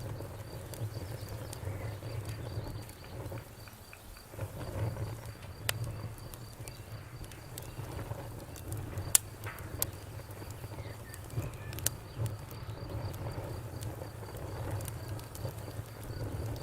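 Campfire burning: a low steady rumble of flames with scattered crackles and sharp pops of burning wood, the loudest pop about nine seconds in.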